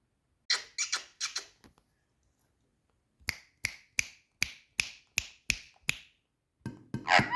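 Indian ringneck parakeet giving short, sharp clicking calls: a quick cluster about half a second in, then an even run of about nine at roughly three a second. A pitched, gliding sound starts near the end.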